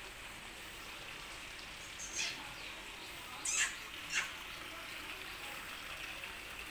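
Three short, high chirps about two, three and a half and four seconds in, over a steady low background hiss.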